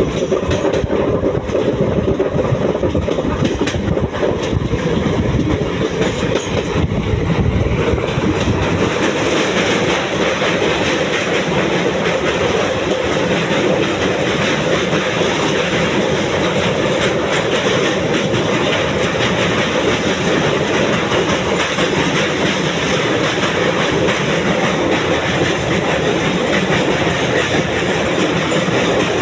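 Indian Railways passenger train running along the track, with the steady rumble and rattle of wheels on rail. About nine seconds in, the deepest rumble falls away and the hiss grows brighter.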